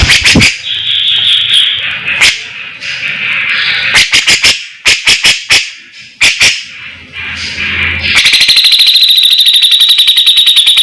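Songbird singing: sharp clicking notes and quick chattering phrases, then, about eight seconds in, a fast, even, high trill that carries through the end.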